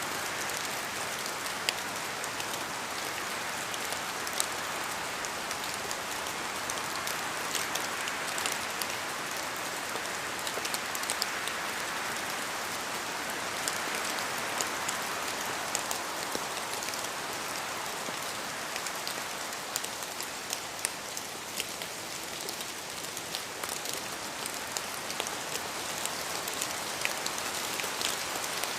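Steady rain falling, an even hiss dotted with many sharp drop ticks on a hard surface.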